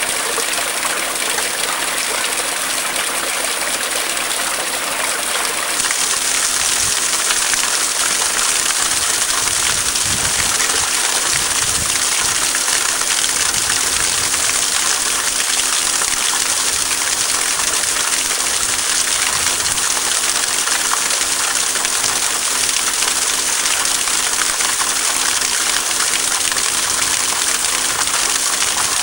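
A small stream rushing and splashing steadily over rocks, its hiss getting fuller and brighter about six seconds in.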